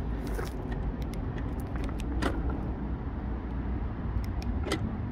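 Ford Grand C-Max engine idling steadily, with a few light clicks and taps over it.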